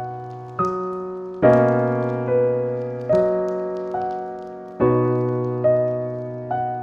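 Slow, gentle piano music: soft notes and chords struck about once a second, each left to ring and fade.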